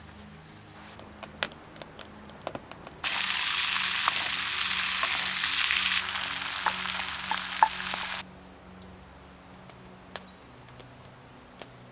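Food sizzling as it fries in a hot pan, a loud hiss that starts abruptly about three seconds in, drops a little around six seconds and cuts off suddenly about eight seconds in. Light clicks and taps come before and after it, and a few short bird chirps.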